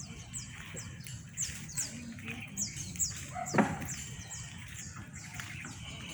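Birds chirping: a rapid run of short, high, downward-sliding chirps, with a single sharp knock about three and a half seconds in, over a low steady rumble.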